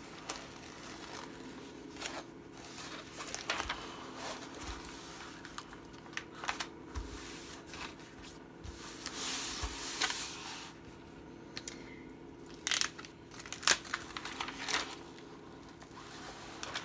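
A tightly rolled diamond painting canvas being handled and smoothed flat by hand: its plastic cover film crinkling and rustling, with scattered taps and a few sharper clicks.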